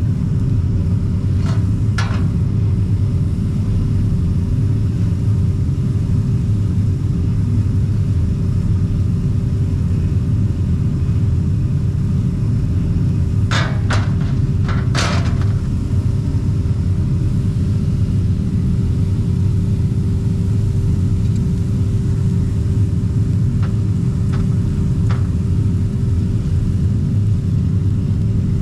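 A machine runs steadily with a low rumble and a constant hum. A few sharp metallic clinks or knocks come through twice near the start, in a quick cluster about halfway, and a few more near the end.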